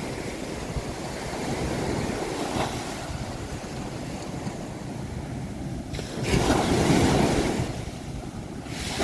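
Ocean waves washing on the shore in a steady wash of surf, with a louder wave breaking about six seconds in and then drawing back.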